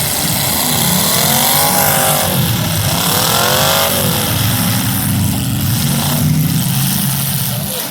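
Several demolition derby cars' engines running, with two engines revving up and back down about one and three seconds in.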